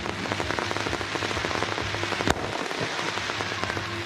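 Fireworks crackling: a dense, rapid stream of tiny pops like a hiss, with one louder bang a little past two seconds in.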